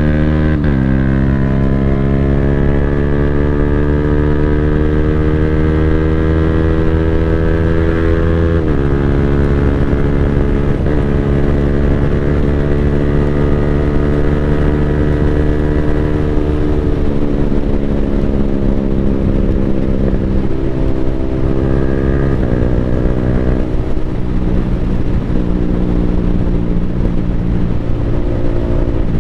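Yamaha Sniper 155R's single-cylinder four-stroke engine through an Akrapovic full-system exhaust, under way. Its pitch climbs slowly, then drops sharply at each of several gear changes made with the quick-shifter.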